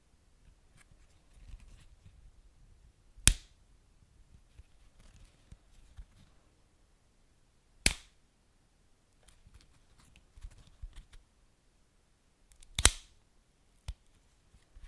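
Wood fire crackling: three sharp, loud pops roughly every four to five seconds, with fainter small crackles between them over a faint low rumble.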